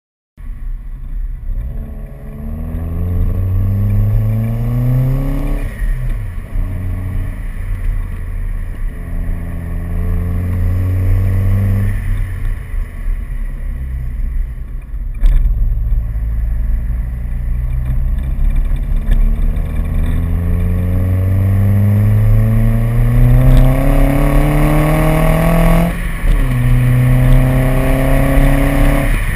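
Volvo V40's 1.9-litre turbocharged four-cylinder B4194T engine breathing through a 3-inch JT exhaust, its revs climbing slowly again and again under acceleration. The pitch drops suddenly at gear changes about six and twenty-six seconds in, and there is a sharp click about fifteen seconds in.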